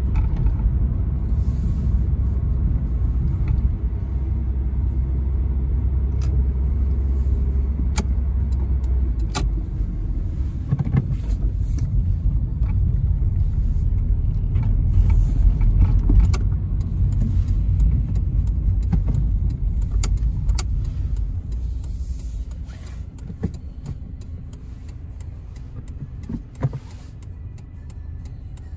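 Inside the cabin of a 1995 Toyota Carina E driving, its 1.6-litre 16-valve four-cylinder engine running under road and tyre noise. A steady low engine drone holds for the first third, then gives way to rougher road noise with occasional knocks and rattles, and the sound gets quieter near the end.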